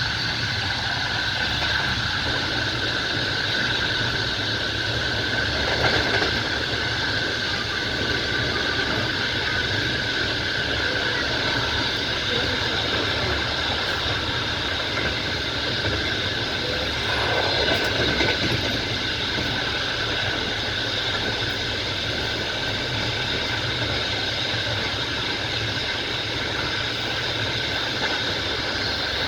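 Moving train heard from its carriage window: the steady running noise of wheels on rails, swelling briefly twice.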